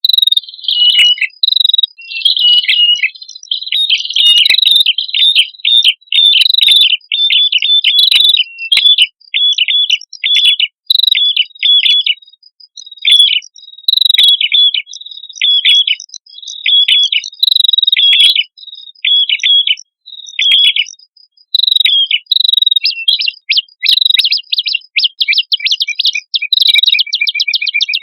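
Prenjak kepala merah songbirds, a male and a female, calling busily in quick, sharp, repeated chirps. From about two-thirds of the way in, the notes run together into a faster, continuous trill.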